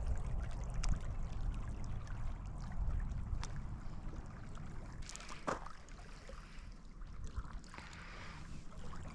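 Water lapping at a lake's edge, with wind rumbling on the microphone and a few light clicks. The rumble is heaviest in the first half and eases off after about five seconds.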